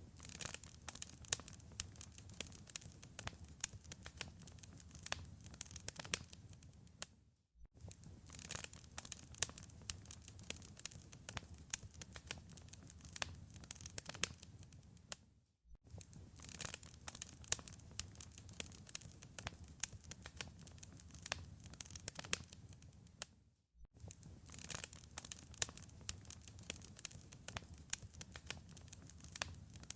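Wood fire crackling in a fireplace: a dense run of sharp pops and snaps over a soft hiss. The crackling drops out to silence for a moment about every eight seconds.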